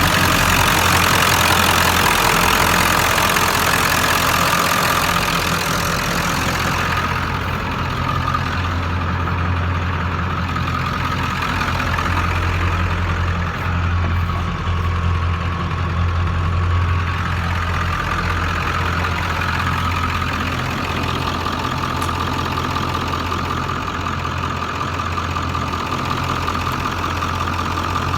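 Ford 7.3 L Power Stroke turbo-diesel V8 idling steadily shortly after a cold start.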